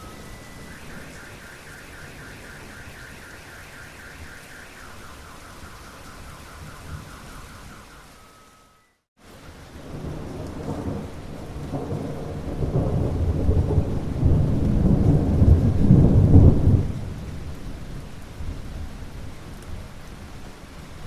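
Steady rain falling, broken by a brief dropout about nine seconds in. Then comes a long low thunder rumble that builds for several seconds, peaks and fades back into the rain. In the first half a high trilling tone sits over the rain.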